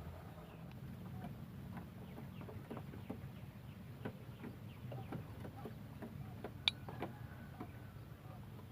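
Quail in captivity, giving soft clucking calls amid scattered light ticks, over a low steady hum; one sharper click about six and a half seconds in.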